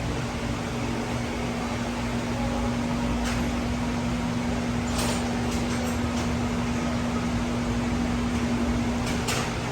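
International MaxxForce DT 7.6 L six-cylinder diesel engine running steadily on a test run, with a few short clicks over the hum.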